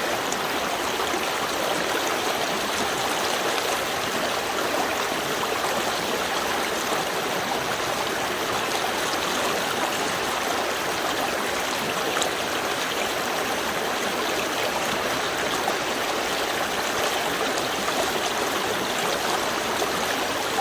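A small river stream flowing: a steady, even rush of water.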